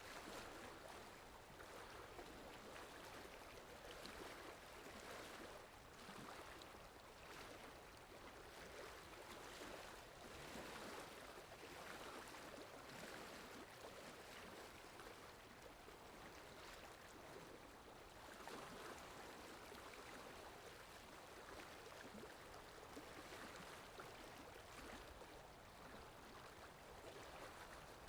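Faint, steady wash of flowing water from a water sound-effect track, swelling and easing every second or two.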